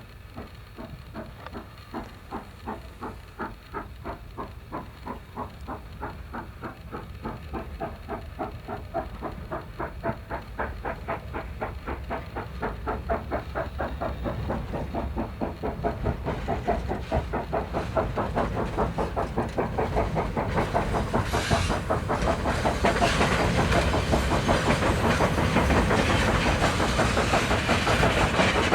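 JS class 2-8-2 steam locomotive approaching, its regular beat growing steadily louder. Steam hissing builds up over the last seconds.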